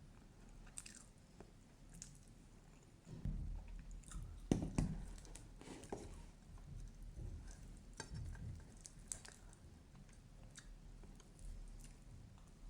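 A person chewing and biting into a burger, with small irregular clicks and crunches; the loudest bites come about three to five seconds in.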